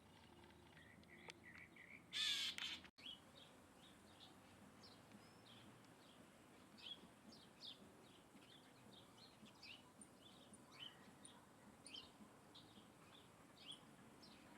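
Small birds chirping: many short, high, falling chirps, several a second, faint. About two seconds in there is a brief loud, harsh call or burst.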